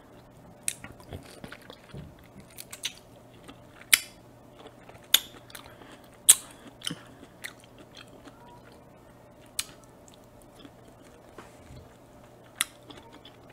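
A person chewing pieces of fresh pineapple and other cut fruit, with irregular sharp mouth clicks and smacks every second or so.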